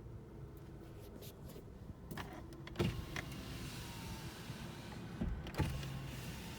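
Vehicle sounds: sharp clicks and knocks over a low steady hum, with a whirring like an electric motor from about three seconds in for a couple of seconds.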